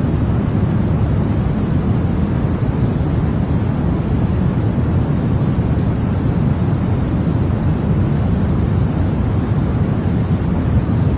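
Continuous white-noise track for baby sleep: an unchanging deep noise, heavier in the low end than a hiss.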